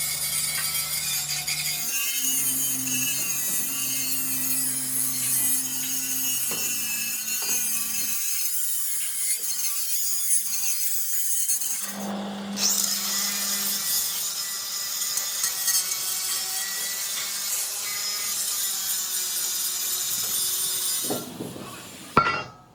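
A power tool working steel plate, making a steady grinding, cutting noise with a sharp knock near the end.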